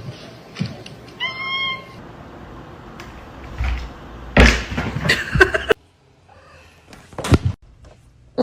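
A cat meows once, briefly, about a second in. Later comes a louder, noisier stretch with a higher cry in it, and near the end a single sharp knock.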